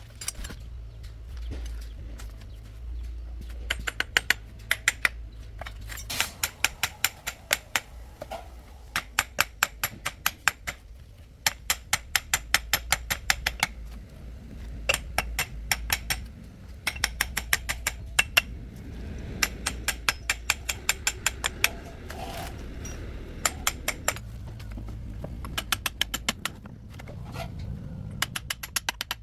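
Rapid metallic clicking in repeated runs of about ten clicks a second, each run lasting a second or two, over a low steady hum.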